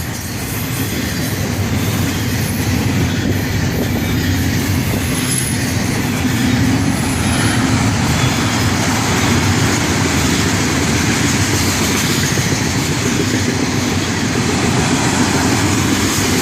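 Freight train cars rolling past at speed, a steady rumble and clatter of steel wheels on the rails.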